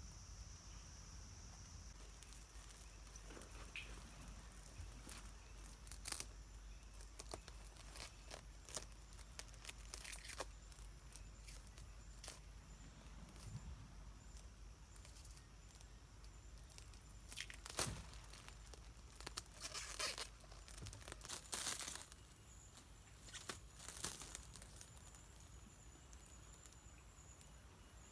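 Plastic sheeting rustling and crinkling as it is handled, with scattered light knocks and several louder rustles in the second half.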